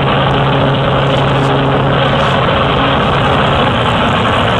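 Cessna light plane's piston engine and propeller running steadily, heard loud and close with a dense rushing noise.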